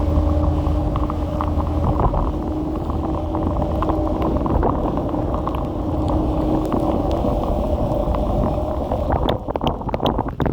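Kugoo electric scooter riding along: a steady motor hum over a loud rumble from the road. The hum fades out in its last few seconds, and a run of sharp clicks and knocks comes near the end.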